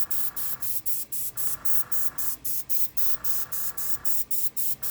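Airbrush, fed by a compressor at 40 psi, hissing in short spurts of air about four times a second.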